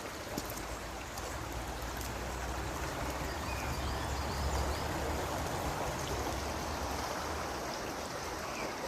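River water flowing and rushing steadily, swelling slightly about halfway through.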